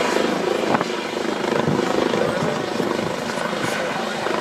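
Medical rescue helicopter running on the ground before lift-off, its rotor and turbine giving a loud, steady noise with a fast rotor chop.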